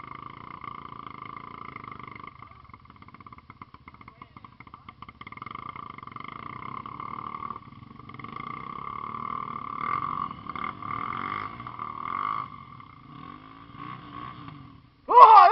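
Off-road motorcycle engines running and revving, the level swelling and falling. Near the end comes a much louder, wavering burst.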